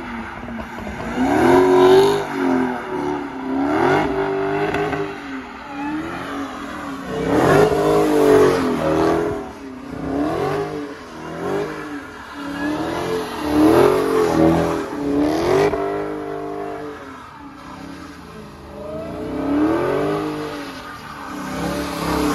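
Dodge Charger's V8 engine revving up and down over and over as the car does donuts, its pitch climbing and falling about every two seconds, with the rear tyres spinning on the asphalt.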